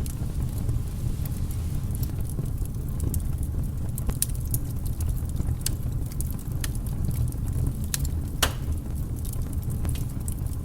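Wood fire burning: frequent sharp crackles and pops over a steady low rumble, with one louder pop about eight and a half seconds in.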